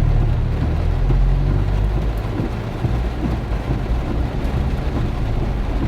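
Heavy rain pouring steadily, with a low rumble of strong wind underneath.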